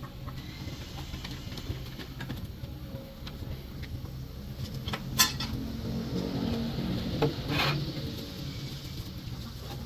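Steady low hum with two sharp metallic clinks of parts being handled, about five and seven and a half seconds in.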